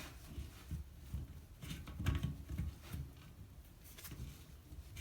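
Faint, scattered taps and knocks of plastic toilet parts and a supply-line fitting being handled as the line is hooked back onto the fill valve.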